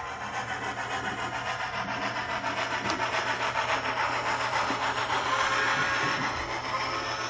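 Model train rolling along the layout track, a steady rush of wheels on rail with rapid fine clicking that grows louder in the middle and eases toward the end as it passes.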